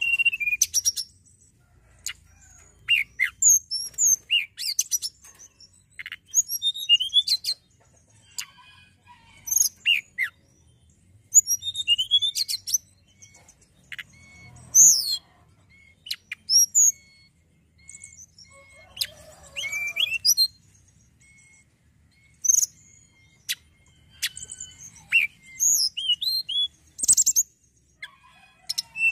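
Hill blue flycatcher (tledekan gunung) singing: short phrases of high, sweet whistled notes and quick twitters every second or two. In the quieter stretch in the middle, a faint short note repeats between the phrases.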